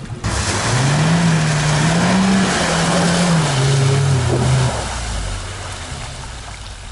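A car engine revving for about four seconds while its wheels spin in deep muddy water, churning and splashing. The car is stuck with its wheels sunk. The engine pitch rises a little, then falls and drops away near the end.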